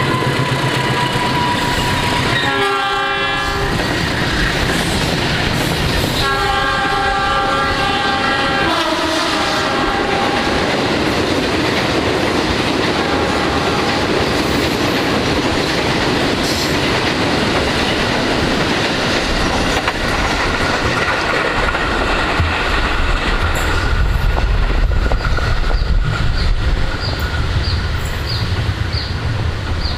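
A train passing close by with continuous wheel-on-rail running noise. Its horn sounds twice: a short blast about three seconds in, then a longer one from about six and a half to nine seconds.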